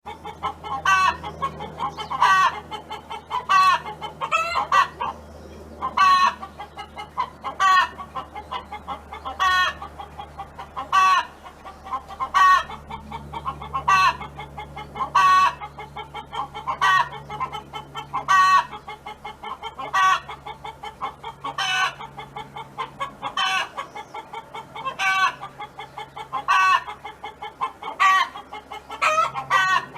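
Chicken hen clucking in a steady repeating pattern: a loud call about every second and a half, with shorter clucks between, over a faint low hum.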